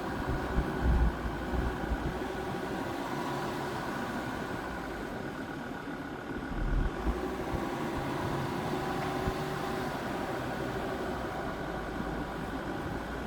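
Jeep Grand Cherokee WJ's 2.7-litre five-cylinder common-rail diesel running steadily at low engine speed. A few low thumps come about a second in and again about seven seconds in.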